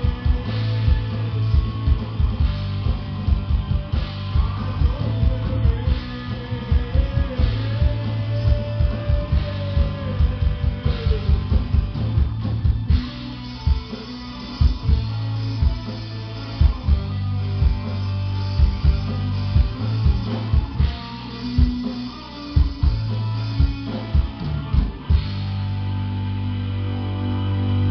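Live rock band playing instrumentally: distorted electric guitars over a low droning bass and driving kick drum, with a bending lead-guitar line for several seconds early on.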